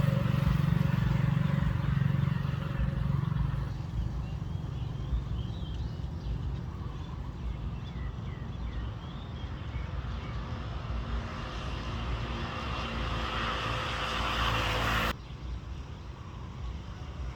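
Low rumble of a passing vehicle, loudest in the first few seconds, under an outdoor background with a few faint bird chirps in the middle. A hissing rush then builds and cuts off suddenly about fifteen seconds in.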